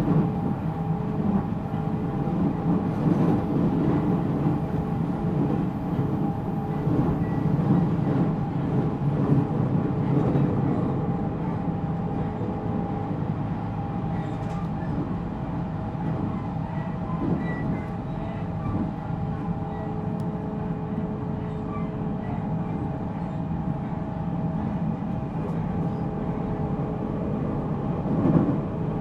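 Interior running sound of a JR Central 313 series electric train's motor car (MoHa 313-7): a continuous rumble of wheels on rail with several steady tones from the running gear, growing slightly quieter through the stretch, and a brief swell near the end.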